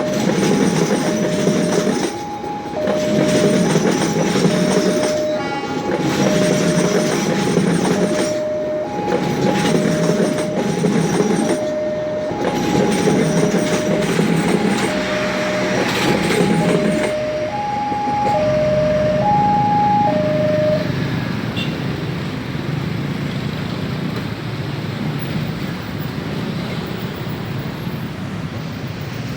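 Passenger train passing over a level crossing, its wheels rumbling in surges about every three seconds as each carriage goes by, under the crossing's electronic warning alarm alternating between a high and a low tone. The train noise fades about 17 seconds in, and the alarm stops a few seconds later, leaving a steady background din.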